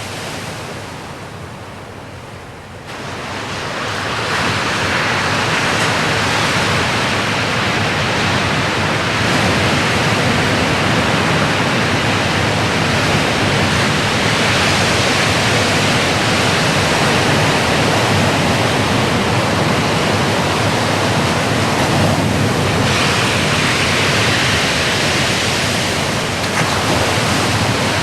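Ocean surf: waves breaking and washing in as a steady rush of noise, swelling up about three seconds in.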